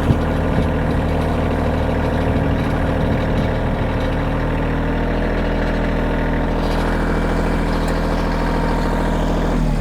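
Kioti compact tractor's diesel engine running steadily at low speed. The engine sound breaks off abruptly near the end.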